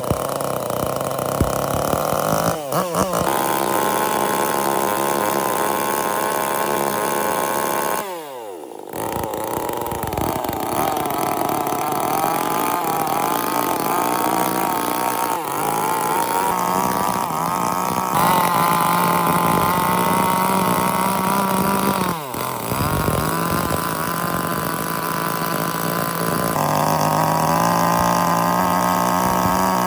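Power tools with motors running steadily on wood, with several abrupt changes in pitch and tone. About eight seconds in, and again about twenty-two seconds in, a motor spins down before running again.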